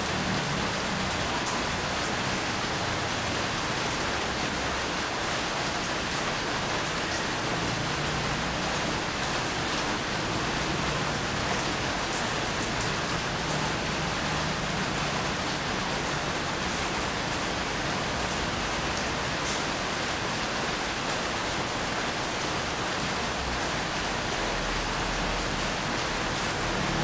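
Steady rain falling: a continuous even hiss with scattered sharp ticks of individual drops hitting.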